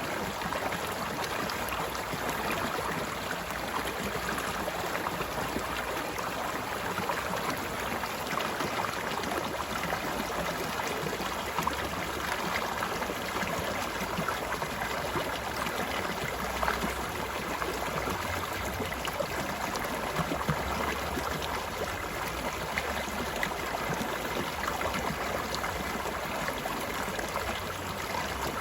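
Water of a small stream flowing and babbling steadily over rocks, an even rushing sound with faint gurgles.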